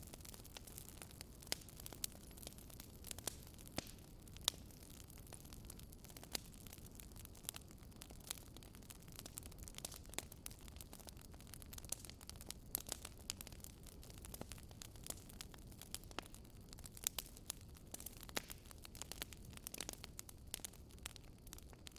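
Campfire crackling: irregular sharp snaps and pops, a few louder than the rest, over a low steady rush.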